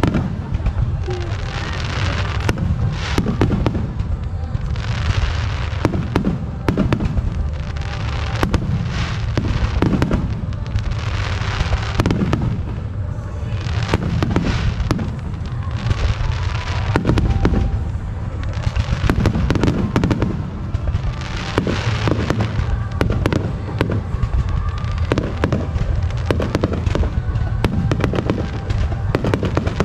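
Fireworks finale: a dense, continuous barrage of shell bursts, one booming report after another with crackle between, heavy low booms throughout.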